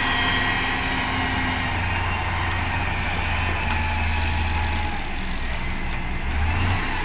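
Heavy construction machine's diesel engine running steadily: a low, even engine hum under a noisy mechanical rumble.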